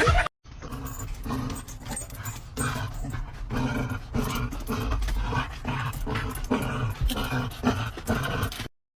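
A dog vocalizing in a long run of short, repeated sounds, a couple or more each second, that stop abruptly near the end.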